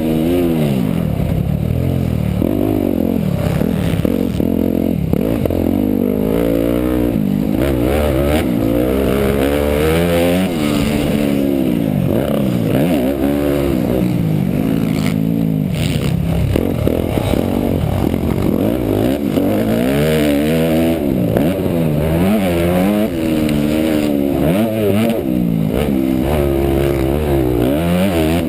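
Motocross dirt bike engine running hard, its revs climbing and dropping over and over as the rider accelerates and backs off around the track.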